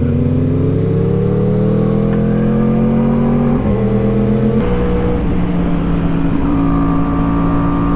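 Sport motorcycle engine pulling up through the revs, shifting up twice about three and a half and four and a half seconds in, then holding a steady cruise.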